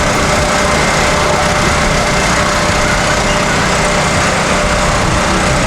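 A loud, steady mechanical drone, like a small engine or motor running, holding level without breaks.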